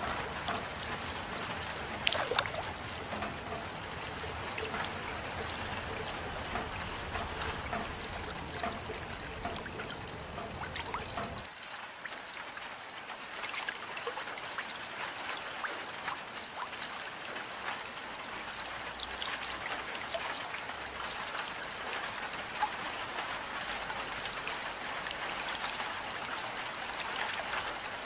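Steady rain with scattered individual drops and trickling water. A deep undertone beneath it cuts out suddenly about a third of the way in.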